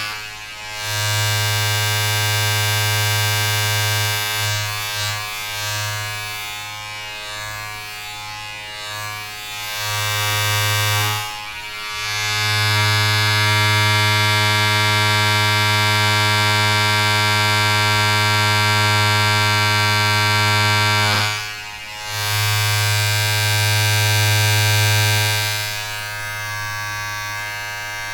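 A small electric motor buzzing steadily with a low hum and many overtones. It cuts out briefly three times and runs softer and less evenly for a while in the middle and near the end.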